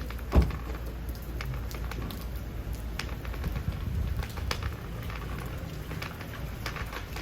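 Light rain pattering, irregular drop ticks over a low steady rumble, with one dull thump about half a second in.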